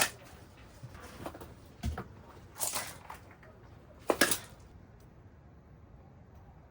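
Several knocks and thuds of objects being handled, with a short rustle in between; the loudest knock comes about four seconds in, then it goes quiet.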